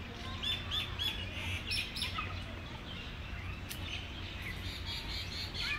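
Small birds chirping: quick runs of short high notes, over a steady low background rumble.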